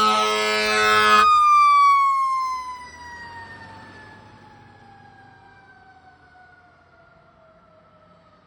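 Fire truck's mechanical siren, held at a high steady pitch together with a horn blast. About a second in the horn stops and the siren winds slowly down in pitch, fading away.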